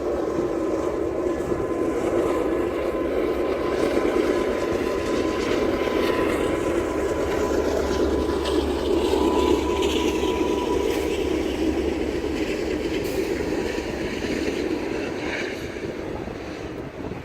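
Freight train rolling past: a steady rumble of steel wheels on the rails, with a thin steady ring, easing off slightly near the end.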